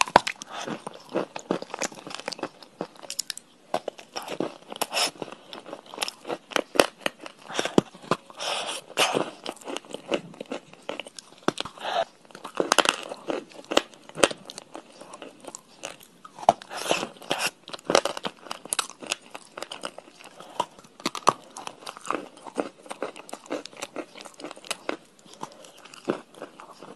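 Close-up mouth sounds of a person biting and chewing a hard, chalky block: repeated sharp, irregular crunches as pieces break off and are ground between the teeth.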